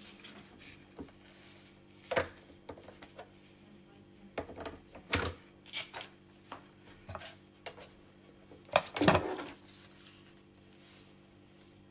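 Irregular clicks and knocks of a coffee machine's parts being handled and fitted, the loudest cluster about nine seconds in, over a faint steady hum.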